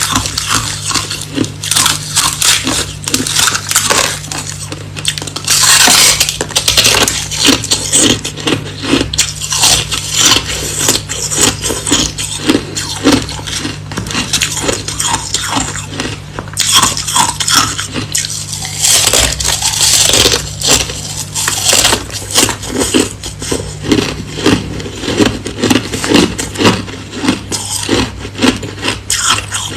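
Hard crushed ice being bitten and chewed close to the microphone: a fast, unbroken run of sharp cracks and crunches.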